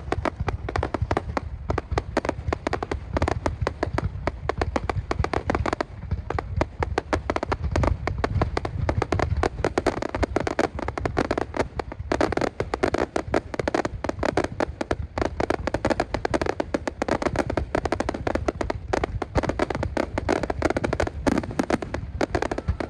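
Fireworks going off without pause: a dense run of rapid bangs and crackles over a low rumble.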